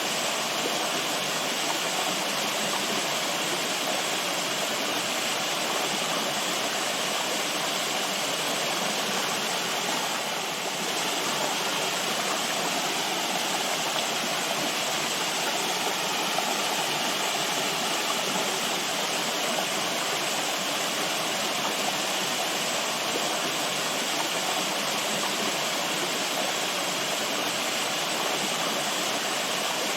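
Running water flowing steadily, an even, unbroken rush like a stream or small waterfall.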